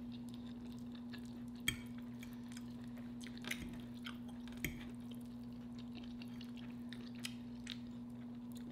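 Chewing of soft food close to the microphone, with a handful of short sharp clicks of the mouth and utensils, the loudest about two seconds in. A steady low hum runs underneath.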